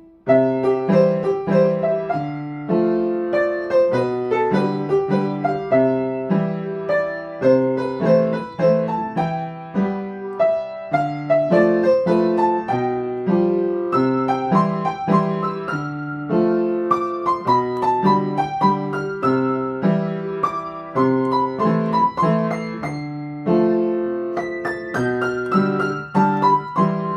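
Piano playing a flowing melody over a repeating left-hand accompaniment, struck notes ringing and fading, starting just after the opening.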